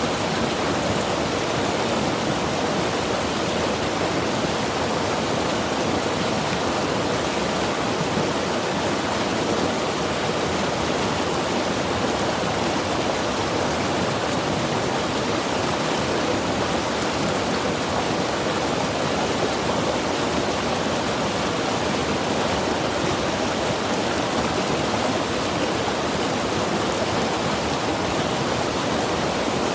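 Mountain river rushing steadily, a continuous even wash of flowing water.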